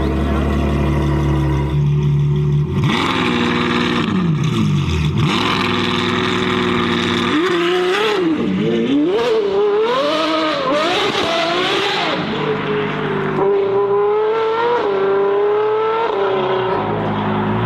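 Modified car engines revving in several short clips cut one after another. The engine pitch rises and falls with the throttle, with a steadier stretch of running between the revs.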